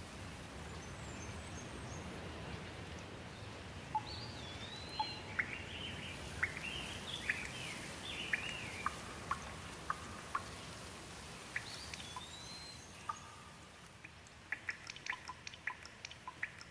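Steady rain with bird calls over it: a run of chirps and short whistled notes from about four seconds in. Near the end the rain thins and quick separate drips tick.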